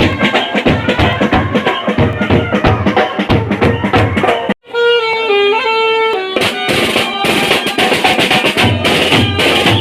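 Band playing with fast, dense drumming; about halfway the sound cuts off abruptly, a short held melody follows, and the drumming starts up again.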